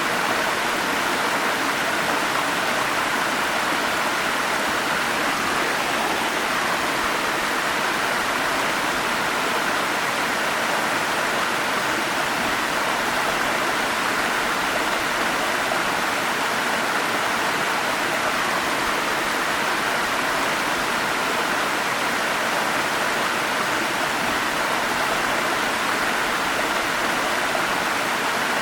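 Forest stream and small waterfalls running, a steady rush of water with no change.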